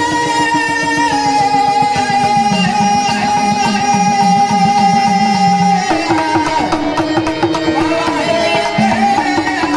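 Marathi devotional gondhal folk music: a long held melody, wavering in its lower part, over steady hand-drum rhythm, with a change in the melody about six seconds in.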